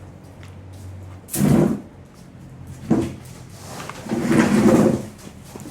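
Three knocks and scrapes of hard objects being handled, the last about a second long and the loudest.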